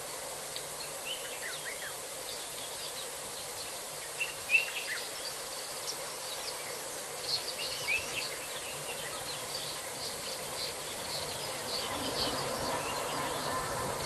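Outdoor bush ambience: many short bird chirps and calls over a steady background of insects, with a faint low hum from the camera's microphone feed.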